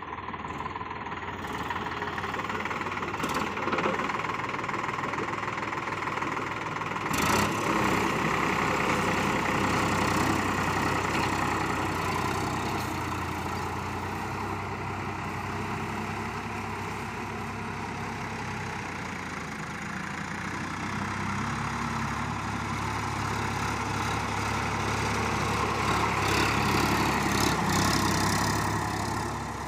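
Sonalika RX 50 Sikander tractor's diesel engine running steadily, with two sharp knocks near the start.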